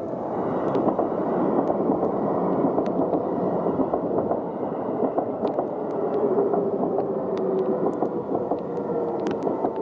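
A train passing close by: a steady rushing rumble that swells in the first second or so and holds, with a faint whine partway through and scattered sharp ticks.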